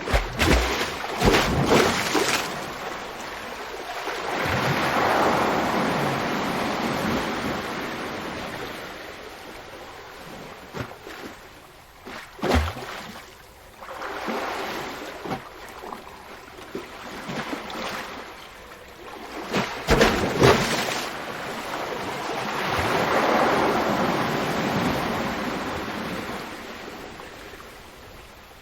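Ocean waves breaking on the shore: sharp crashes of surf near the start, about twelve seconds in and again about twenty seconds in, between swells of rushing foam and wash that rise and fade.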